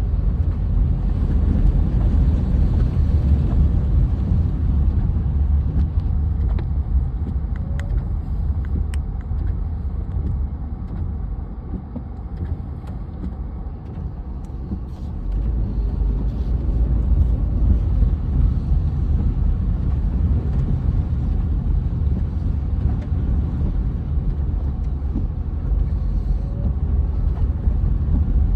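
Steady low rumble of a road vehicle running, easing off a little around the middle and building again.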